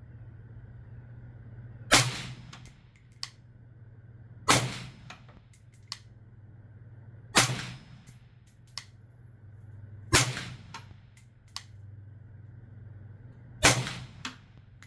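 Five suppressed 5.56 rifle shots through a B&T VERS36 titanium suppressor, fired slowly about three seconds apart, each a sharp crack with a short tail, with lighter clicks after some of the shots.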